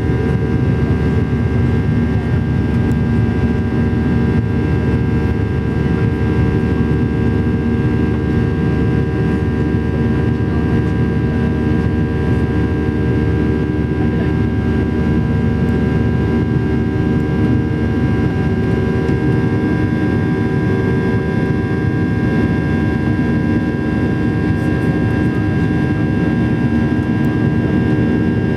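Steady cabin noise inside a Boeing 737-800 in flight: the drone of its CFM56 turbofan engines and the rush of air over the fuselage, a low rumble under several steady whining tones that don't change.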